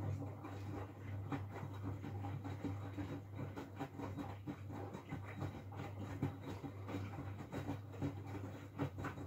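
Miele W433S front-loading washing machine's drum turning in the main wash while heating to 60°C: a steady motor hum with the wet laundry tumbling and swishing. The drum stops suddenly at the end.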